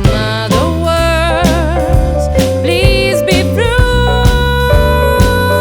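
Jazz band playing a swing ballad: a voice sings held notes with wide vibrato over a stepping bass line and a steady beat, settling into a long sustained note about four seconds in.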